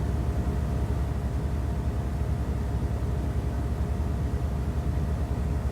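Steady low background rumble with a faint hiss, no speech.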